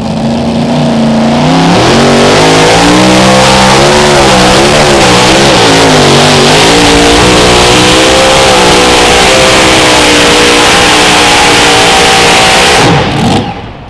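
Mini rod pulling tractor's engine at full throttle on a pull: it climbs in pitch about a second or two in, holds flat out with the pitch wavering, then is shut off near the end, the pitch falling as it dies.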